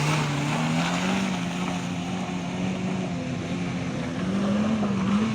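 Dump truck engine running steadily under load as it strains to climb a slippery slope, its revs creeping up slightly near the end.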